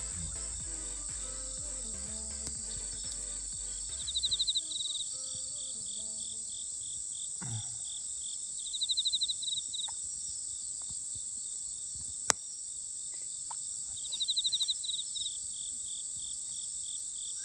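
Night insects chirring steadily, with a short pulsed trill repeating about every five seconds, and a few sharp pops from a crackling campfire of damp wood, the clearest about twelve seconds in. Background music plays under them for the first few seconds and then stops.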